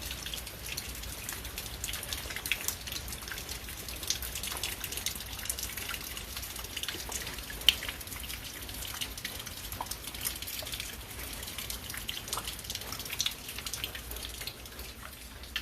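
Rain dripping from the eaves, a steady patter of many scattered drops, with one sharper drop about eight seconds in.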